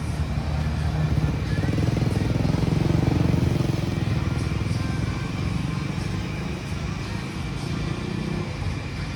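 A motor vehicle's engine running close by, its low rumble swelling over the first few seconds and easing off near the end.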